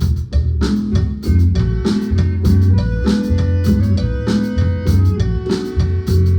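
A Guatemalan marimba band playing, a drum kit keeping a steady beat under low bass notes and a pitched melody.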